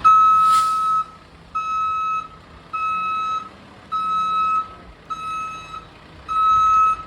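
A waste truck's backup alarm beeping steadily as it reverses: six long, even beeps, about one a second. A brief hiss of air comes near the start.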